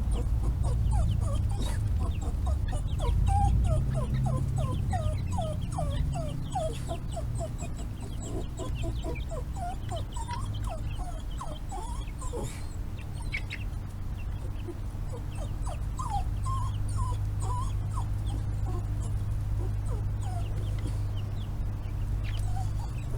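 Dog whining, a long run of short, falling whimpers that come thick and fast at first and more sparsely later, over a steady low rumble; the dog is eager to get at the chickens.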